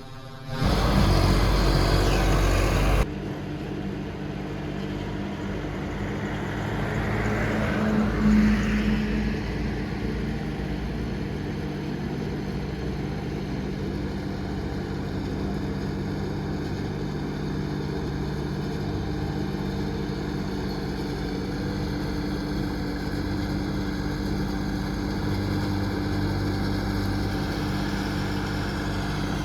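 John Deere combine harvester's diesel engine running steadily, swelling briefly about eight seconds in. A loud rushing noise covers the first couple of seconds.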